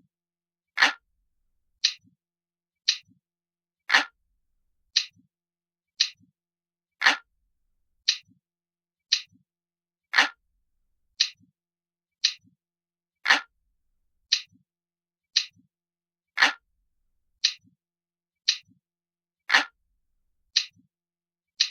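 Clock ticking steadily, about one tick a second, each tick followed by a faint softer click, and every third tick louder and fuller than the two between.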